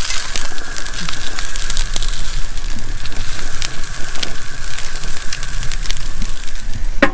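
Meatloaf slices sizzling in a cast iron skillet on a portable gas grill: a steady crackling hiss full of small pops.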